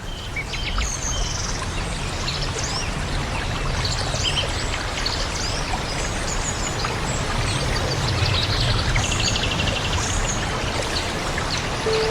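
Running water from a stream, with many small birds chirping and calling over it, including a quick buzzy trill about nine seconds in.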